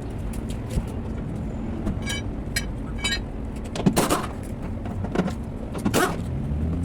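Three light metallic clinks about half a second apart, then two heavier metal knocks about two seconds apart, over a steady low rumble of vehicle noise.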